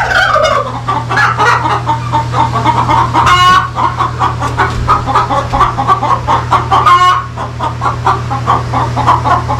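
A flock of chickens clucking continuously in rapid, overlapping calls, with two louder drawn-out hen squawks, one about three and a half seconds in and another near seven seconds.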